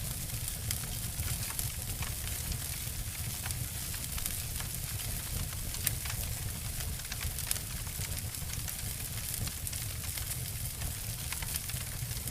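Wood fires crackling and snapping, with scattered sharp pops, the loudest about halfway through and again a little later, over a steady low rumble.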